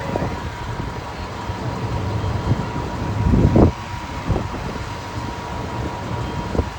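Steady low rumble of wind on the microphone over running vehicle engines, with a faint steady high tone throughout. There is a louder swell about three and a half seconds in.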